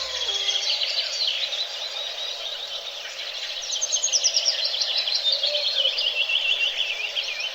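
Small songbirds singing and chirping, with many quick overlapping calls. About four seconds in, a fast run of repeated notes falls steadily in pitch over about three seconds.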